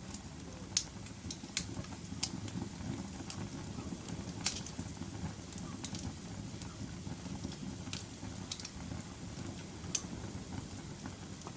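Wood fire burning in a fireplace: a steady low rumble of flames with sharp crackles and pops every second or two, the loudest about four and a half seconds in.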